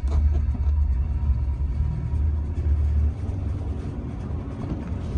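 Jeep Wrangler TJ driving on snowy roads: a steady low engine and drivetrain rumble, a little quieter after about three seconds.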